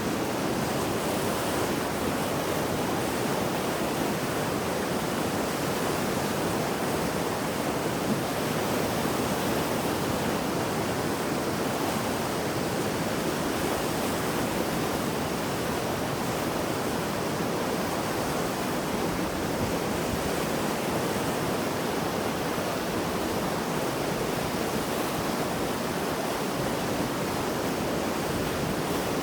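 Mountain river in flood after heavy rain, a steady full rush of fast water.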